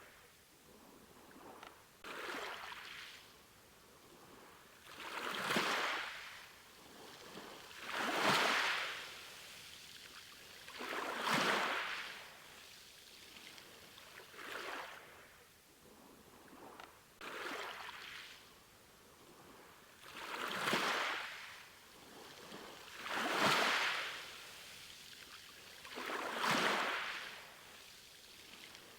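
Ocean waves breaking and washing in, in a steady rhythm: nine swells of surf, each rising and falling away about every three seconds.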